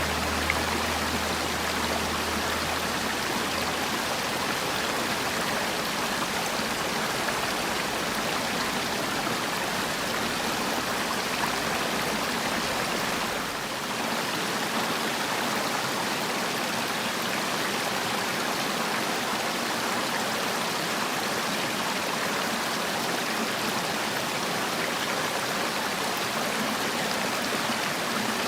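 Mountain valley stream flowing with a steady, even rush of water, briefly dipping in level about halfway through.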